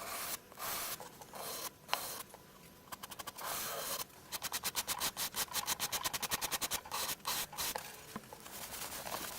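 Sandpaper rubbing over the freshly finished binding and top-to-side joint of a 1970s Fender F35 acoustic guitar, smoothing the repair. A few separate strokes come first, then about four seconds of quick back-and-forth rubbing, roughly six strokes a second, easing off near the end.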